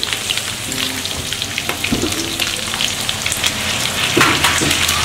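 Chopped duck pieces frying in oil in a steel wok: a steady sizzle with fine crackling spits.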